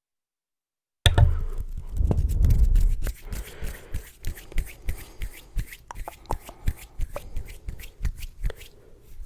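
Close-miked hand sounds, starting abruptly after about a second of total silence. A loud low rubbing rumble lasts about two seconds, then comes a run of irregular quick taps and clicks, two or three a second.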